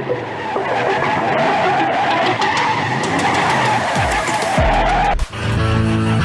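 Car tyres squealing in a long skid over engine noise, with low falling sweeps near the end. About five seconds in it cuts off suddenly and music with guitar takes over.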